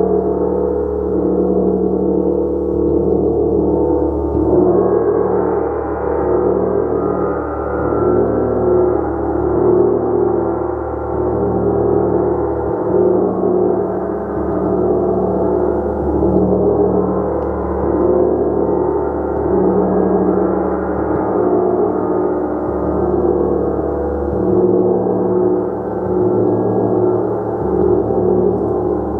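Gong played continuously: a dense wash of many overlapping, sustained tones that swells and eases every couple of seconds without dying away.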